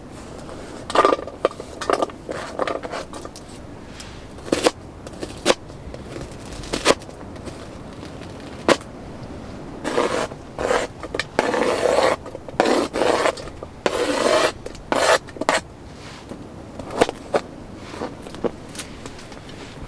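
Irregular scraping and rubbing, with sharp knocks scattered throughout and a busier run of scraping about halfway through.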